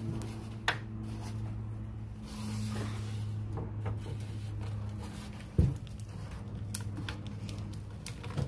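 An inside door panel being worked loose from the tar holding it to a 1955 Chevy pickup door: scattered clicks and scrapes of the panel and door metal, with one heavy thump about five and a half seconds in, over a steady low hum.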